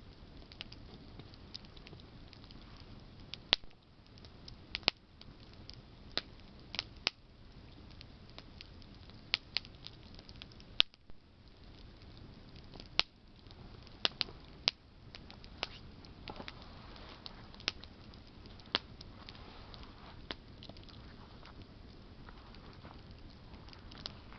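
Campfire of burning branches crackling, with sharp irregular pops and snaps over a low steady hiss.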